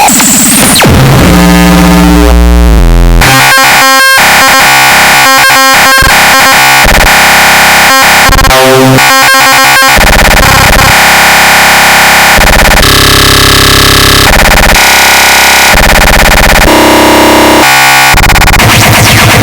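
Harsh noise music with extratone: dense distorted electronic noise at full volume, switching abruptly between blocks of buzzing tones and static, with a stretch of rapid stuttering cuts in the first half.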